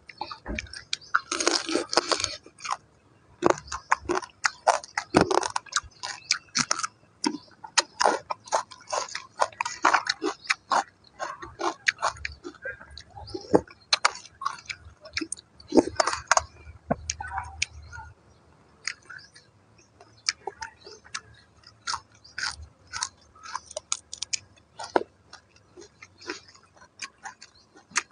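A person chewing and crunching mouthfuls of raw crab in spicy sauce: a dense run of sharp, wet mouth clicks and crunches.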